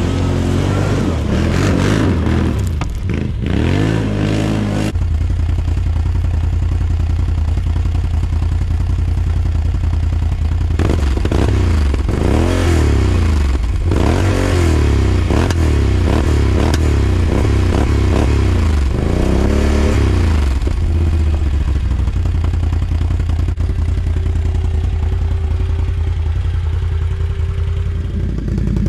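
Can-Am Outlander ATV engine idling and being revved through its exhaust: a few blips early on, then idling, then a run of about half a dozen quick throttle blips that rise and fall, before it settles back to a steady idle.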